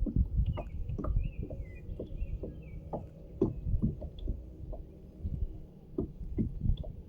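Irregular dull thumps and knocks against a kayak hull over a low rumble, with a few short bird chirps in the first couple of seconds.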